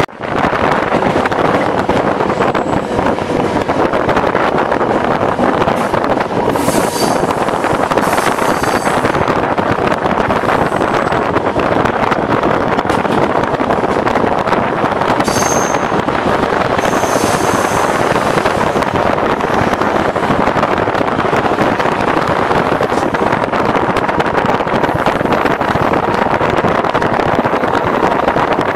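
ICF-built Class S11 diesel-electric multiple unit running along the line, a steady rush of engine, wheel-on-rail and wind noise. Twice, about 7 and 16 seconds in, short high-pitched squeals cut in over it.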